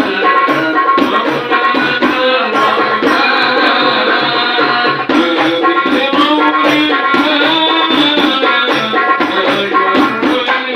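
Hadroh ensemble performing: rebana frame drums beat a quick, steady rhythm of about three strokes a second under a sung melody, with jingling percussion on top. The music cuts off abruptly at the end.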